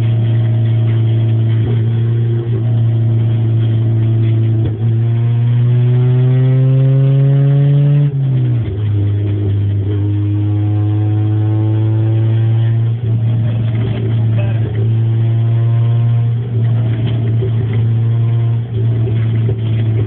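Fifth-generation Honda Civic engine running with no exhaust system fitted, so it is loud and open. It idles and is revved twice, each time the pitch climbing gradually for a few seconds, then dropping sharply back to idle.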